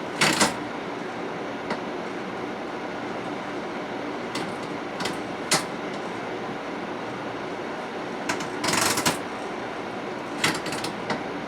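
Steady running noise inside a moving 500-series Shinkansen car, with sharp clicks and knocks now and then, the loudest about a second before the end of the long gap near 9 seconds.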